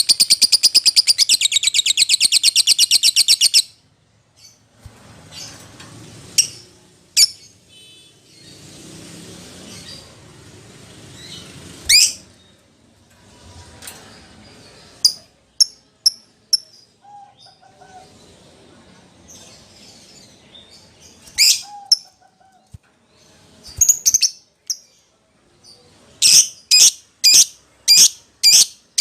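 Lovebird calling: a loud, rapid trill of shrill chirps for the first three seconds or so, then scattered single sharp chirps, and near the end a run of sharp chirps about two a second. It is a lovebird's call to its companions or a rival, the kind played as a lure to set other lovebirds calling.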